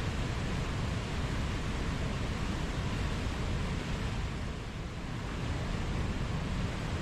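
Steady rush of running water, easing a little about five seconds in.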